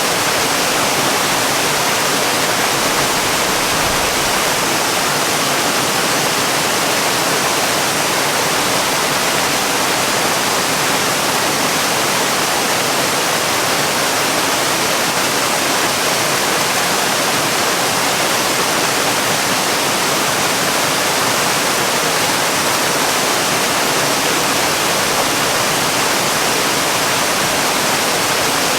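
Waterfall, water falling in a steady, unchanging rush that is heavy on hiss and light on low rumble.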